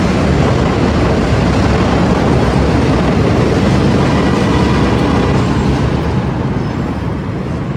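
Chicago 'L' elevated train passing, a loud steady rush of wheels on rails that begins to fade in the last two seconds.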